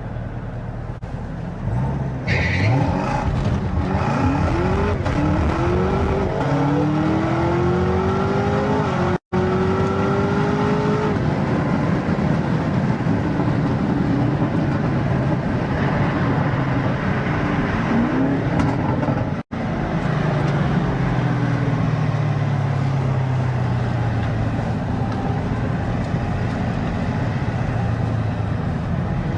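Supercharged V8 of a Camaro ZL1 1LE at full throttle on a drag launch: short rising revs early on as the rear tyres spin with little traction, then the engine revs climbing through the gears with upshifts. Later the engine note falls steadily as the car slows down, with two very brief dropouts in the sound.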